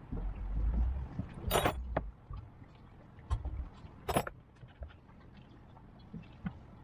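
Tools and metal parts knocking while the boat's hydraulic steering cylinder is taken apart: two sharp clinks, about a second and a half and four seconds in, among lighter knocks, with a low rumble over the first two seconds.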